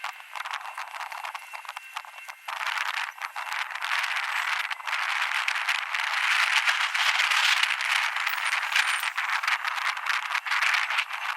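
Wind rushing over the microphone while riding an electric skateboard, with a steady run of rattling clicks from the board rolling over the pavement; the rushing grows louder from about four seconds in.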